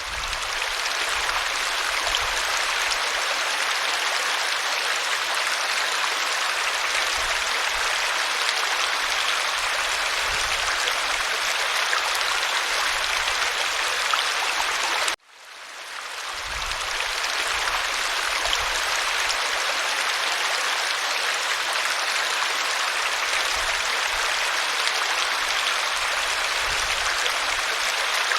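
Waterfall: a steady, even rush of falling water. About halfway through it cuts out abruptly and fades back in over a second or two, the seam of a looped recording.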